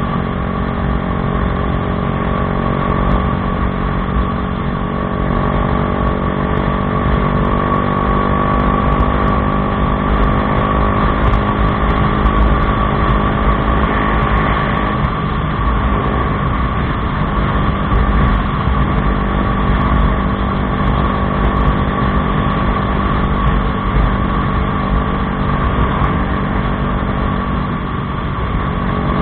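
Bajaj Dominar 400's single-cylinder engine running through an aftermarket Akrapovič exhaust, its note holding steady with little change in pitch.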